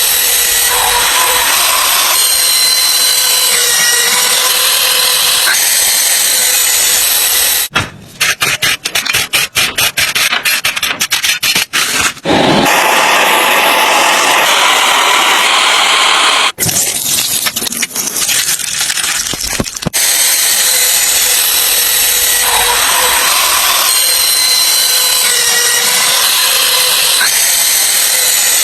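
A power tool working on metal with a steady, noisy run, broken by two stretches of choppy, stop-start sound near the middle.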